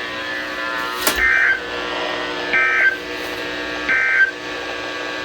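Weather radio receiver's steady electronic hum, with a sharp click about a second in and three short beeps about a second and a half apart.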